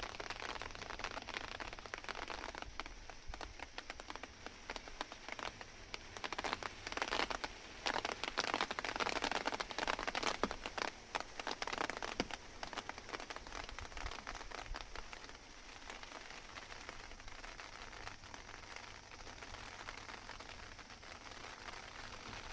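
Rain falling and pattering on an unpainted ulin (ironwood) wood deck, a dense spatter of drops. It comes down harder for several seconds in the middle, then eases to a lighter patter.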